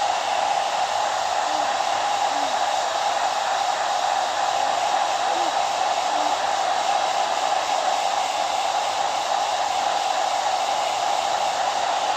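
Hair dryer running steadily, a continuous even rush of air with a steady whine-like band in the middle of the sound.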